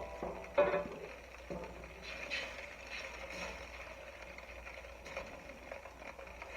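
Cornstarch-thickened sauce heating toward a boil in a pot, a faint steady sizzling hiss. There is a short burst of background music about half a second in.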